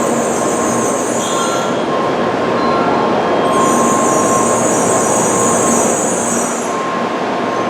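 Tokaido Shinkansen train moving along the platform: a steady, loud rush of running noise with a high hiss that fades out, comes back and fades again.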